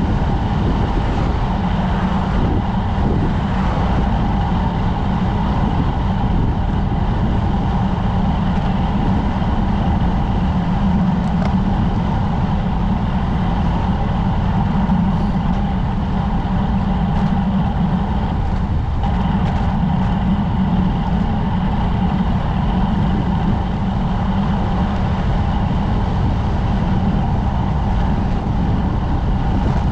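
Steady rush of wind and tyre noise on the camera microphone while riding a road bike.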